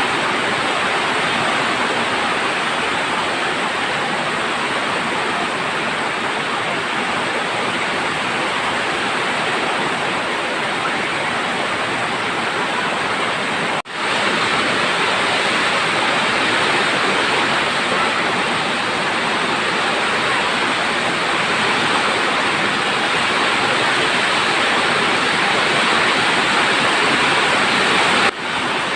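Heavy rain pouring down in a steady, loud downpour, cutting out briefly about 14 seconds in and again near the end.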